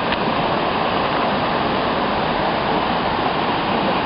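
Small waterfall, about two metres high, pouring into a pool: a steady, even rush of falling water.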